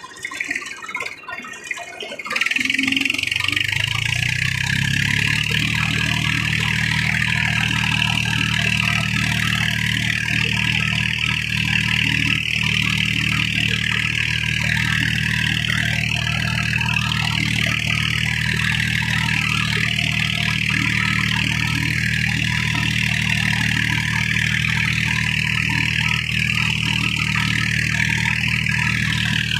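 Tractor diesel engine starting about two seconds in, its pitch climbing for a couple of seconds before it settles into steady running.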